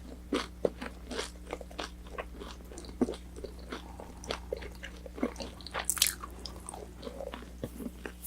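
Close-miked chewing of crispy battered orange chicken: irregular crunches and crackles of the fried coating between the teeth, with a louder crunch about six seconds in.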